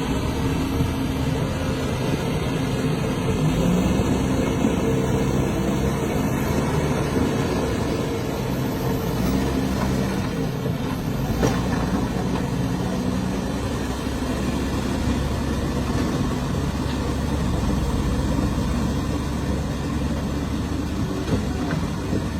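Heavy truck engine running steadily at low revs, its pitch shifting a little. There is one faint click about halfway through.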